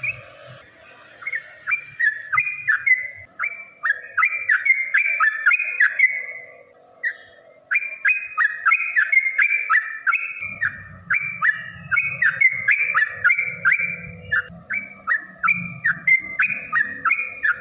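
Yellow-vented bulbul singing a long run of quick, bubbling chirped phrases, the rapid 'ropel' song, with a short break about seven seconds in.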